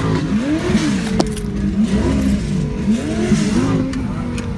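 Several car engines being revved in repeated blips, each rising and falling in pitch about once a second, over a steady idle.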